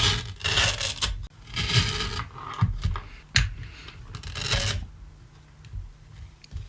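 Guitar patch cables and pedals being handled and re-plugged on a pedalboard: irregular rustling and rubbing with a few sharp clicks.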